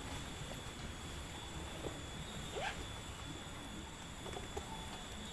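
A few faint, short animal calls, one rising in pitch about two and a half seconds in, over a steady background hiss.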